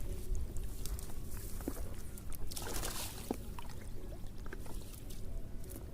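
Water sloshing and splashing as a fishing net is worked in the water, with a louder splash about two and a half seconds in and a few small clicks.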